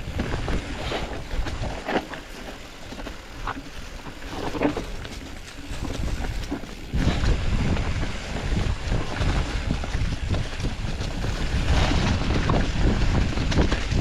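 Wind buffeting the microphone and tyre noise as a Specialized Status 160 full-suspension mountain bike rolls down a dirt trail. Scattered knocks and rattles come from the bike over rough ground. The wind rumble jumps much louder about halfway through as the bike picks up speed.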